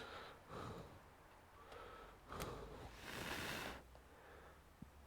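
A man's sharp, breathy exhale about three seconds in, amid a few faint clicks and small handling noises.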